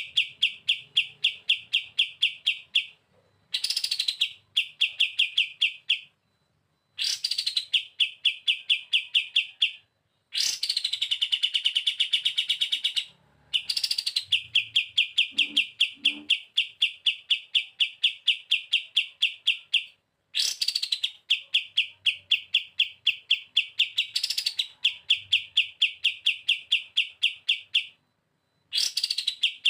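Kapas tembak (a bulbul) singing its 'bren' song: phrases of about three seconds, each opening with a quick falling note that runs into a fast, even rattle of about seven notes a second, with short pauses between phrases. One longer phrase runs for about six seconds in the middle.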